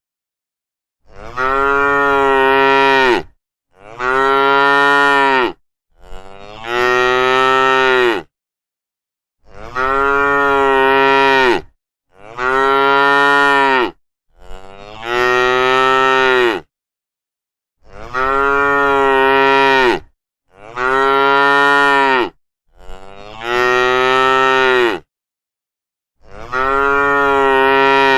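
A cow mooing: about ten long moos of around two seconds each, one after another with dead silence between them. Each moo drops in pitch at its end.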